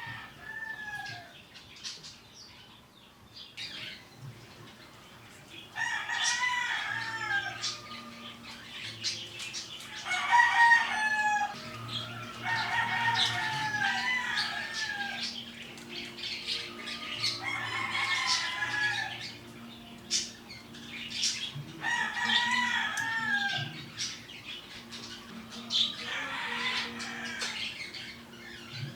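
Roosters crowing again and again, a new crow every few seconds, over a faint steady low hum.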